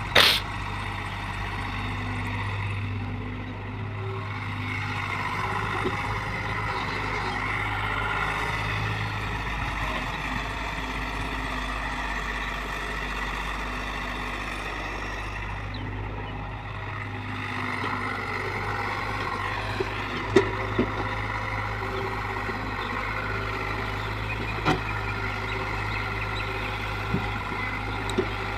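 A heavy diesel engine of earthmoving machinery runs steadily with a low hum. A loud sharp knock comes right at the start, and a few lighter knocks fall in the second half.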